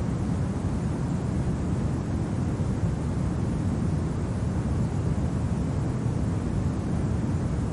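Steady low winter wind, a continuous rumbling rush with no gusts standing out.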